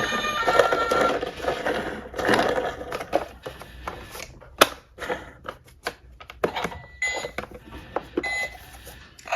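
Small diecast toy cars clattering on a hard surface: a dense rattle for the first couple of seconds, then scattered sharp clicks and knocks.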